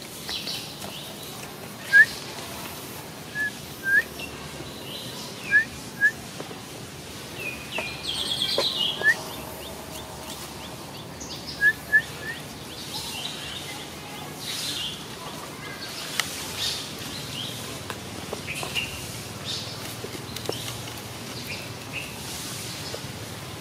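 Wild birds chirping: short rising chirps, often in pairs, every second or two over a steady outdoor background, with a busier flurry of higher chirps about eight to nine seconds in.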